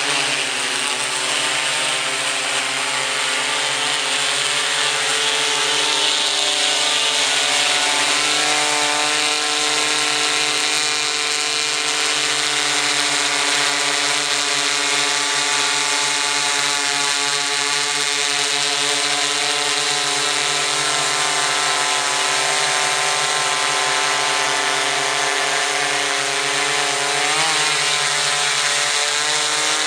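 Drone propellers and motors spinning up with a rising whine, then a loud steady multi-tone hum as the quadcopter hovers close by.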